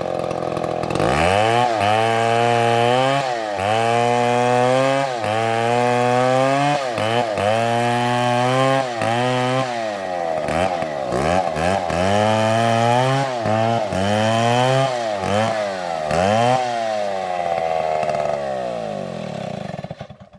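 STIHL chainsaw cutting wood: the engine's pitch dips each time the chain bites and climbs back, about every second and a half, with a few stretches of steady high revving between cuts. It cuts off suddenly near the end.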